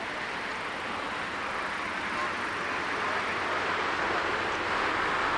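Jet airliner engine noise, a steady rushing sound that grows gradually louder as the aircraft comes nearer.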